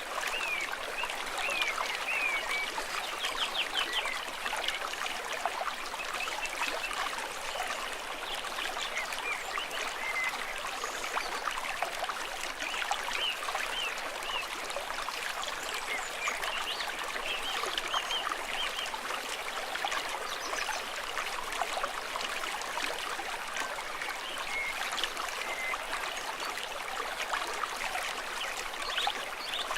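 A small stream trickling and babbling steadily over stones, with many short bright gurgles throughout.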